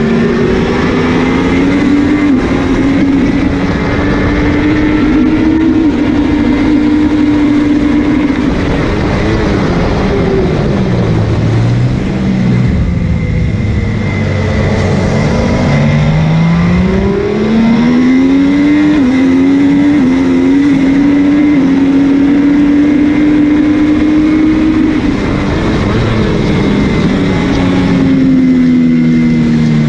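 MV Agusta F3's inline three-cylinder engine at racing speed, heard on board. It holds high revs, falls away about ten seconds in, climbs back through quick stepped upshifts, holds high again, then falls off near the end.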